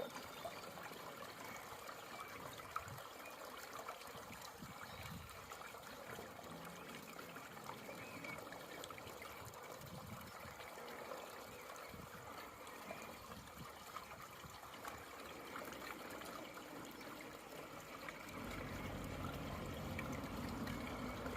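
Puddle water trickling and draining down through a storm drain grate in a steady flow, growing louder and deeper near the end.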